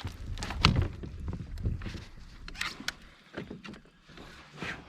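Irregular knocks, bumps and clatter over a low rumble, typical of handling a just-landed fish and fishing tackle in a boat.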